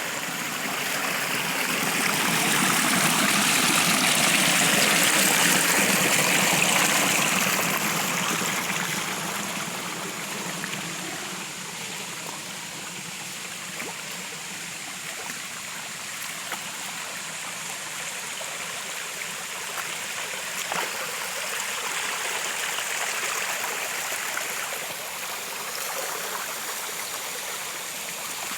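Water running in a stream, a steady rush and trickle that swells louder for a few seconds near the start, then settles.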